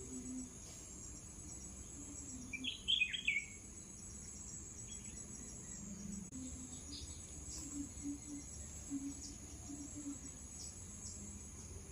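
Crickets chirring steadily at a high pitch, with a short run of bird chirps about three seconds in.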